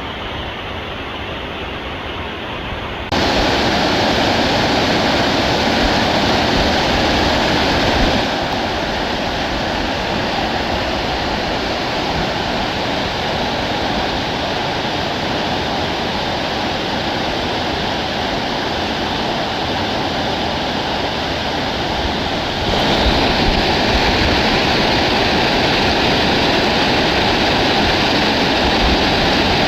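Rushing mountain stream water, a steady loud hiss of flowing water that jumps abruptly louder about three seconds in, eases slightly around eight seconds and steps up again near the end.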